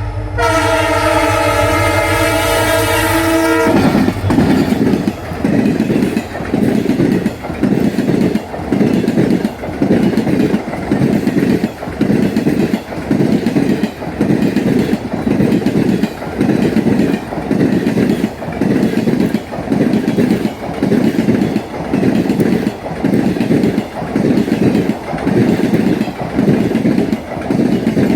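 EMD WDP-4 diesel locomotive's multi-tone air horn blaring, then cutting off abruptly about four seconds in. After that, the passing train's wheels clatter over rail joints in a loud, steady rhythm about once a second as the coaches go by.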